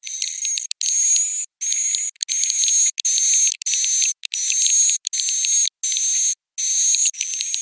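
Edible-nest swiftlet roosting-call lure recording: bursts of high-pitched twittering chirps, each with a slowly rising whistle-like tone and rapid clicks, broken by sudden short silences about every second. This is the 'suara inap' sound played in swiftlet houses to draw swiftlets in to roost.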